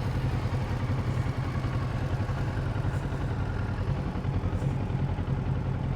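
Kawasaki Z650RS parallel-twin engine running at a steady, even pitch.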